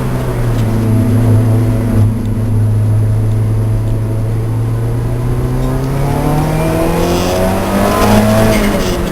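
Racing car's engine running at steady revs, then climbing in pitch under acceleration for a couple of seconds. Near the end the revs drop suddenly, as at an upshift.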